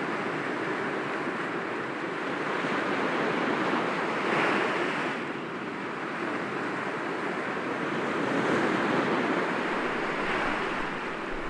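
Sea waves breaking gently against rocks: a steady rush of surf that swells twice, about four seconds in and again about eight seconds in.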